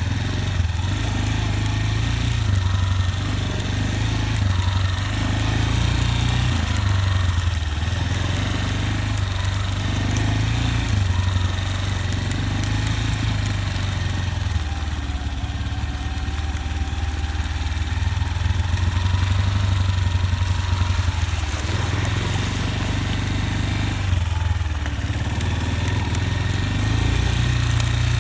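Motorcycle engine running steadily, its note stepping up and down now and then.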